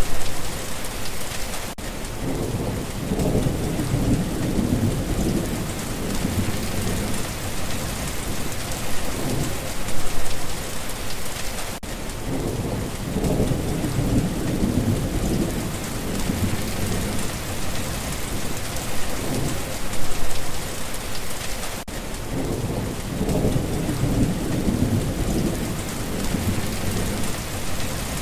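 Steady heavy rain hissing, with low rolling thunder rumbles swelling up three times, about every ten seconds.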